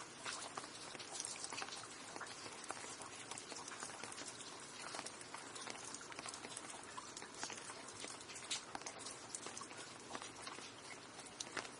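Steady rain, a dense patter of many individual drops striking a surface, even and unbroken with occasional sharper drips.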